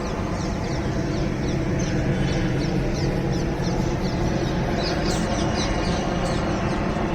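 A flock of birds giving many short, high, falling chirps over a loud, steady rush of noise.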